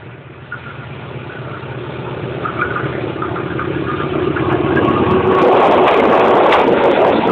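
Diesel locomotive hauling a passenger train, approaching head-on with its engine sound growing steadily louder. It then passes right by the low-set microphone with a loud rush and rapid clicks and rattles from the wheels on the rails.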